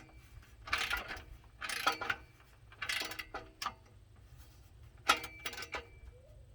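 Socket ratchet clicking in short strokes, about one burst a second, as a bolt is worked.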